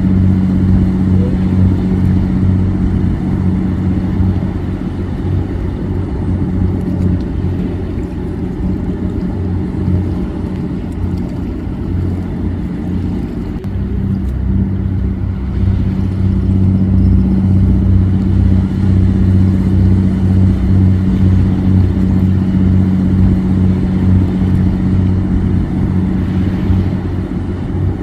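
Boat engine running steadily with a low, even hum, easing slightly for a few seconds and then picking back up.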